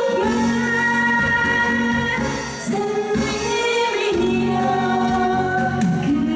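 A woman singing a Korean trot song with held, sliding notes over instrumental accompaniment.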